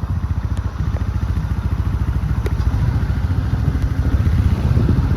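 Car engine and road noise heard from inside the moving car's cabin: a steady low rumble with a rapid, even throb.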